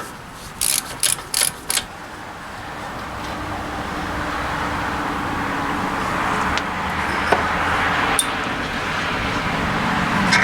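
Four quick metallic clinks of hub parts being handled. Then a steady mechanical rumble that slowly grows louder.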